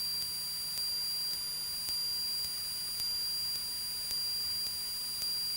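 Steady high electronic whine with a low hum and faint regular ticking: electrical noise in a Cessna 172's intercom audio feed, with no voices on the line.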